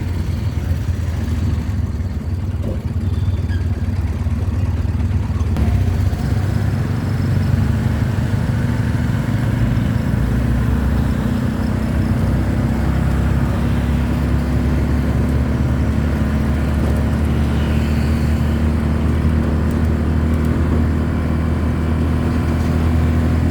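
A steady, low engine drone that runs without a break, a little fuller after about six seconds.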